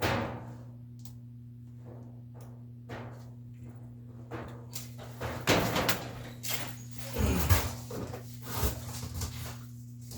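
Scattered knocks and clunks of parts and tools being handled while a top-load washer is taken apart, loudest about five and a half and seven and a half seconds in, over a steady low hum.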